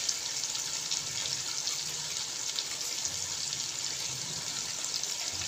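Tomato, onion and ginger-garlic masala sizzling steadily in hot oil in a metal karahi, with a few faint crackles.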